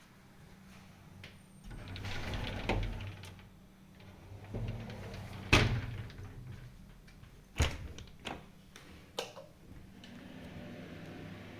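A door being slid and handled: a rumbling slide about two seconds in, then several sharp knocks and clunks.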